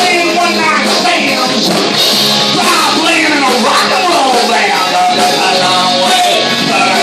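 Live rock band playing a cover song, with loud electric guitars and a singing voice.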